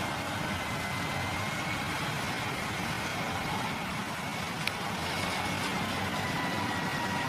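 An engine running steadily at idle, with a faint steady whine over it. A single sharp click comes a little past the middle.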